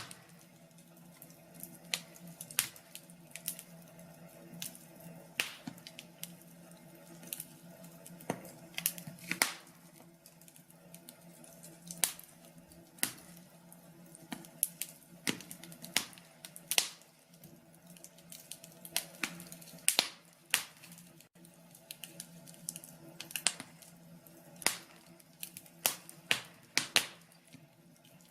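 Wood fire crackling in a fireplace: irregular sharp pops and snaps, one or two a second, over a soft low hiss and hum.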